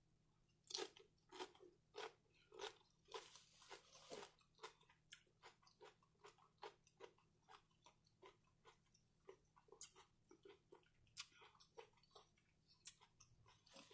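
Doritos nacho chip being bitten and chewed: a run of crisp crunches at about two or three a second, loudest over the first few seconds and softer after.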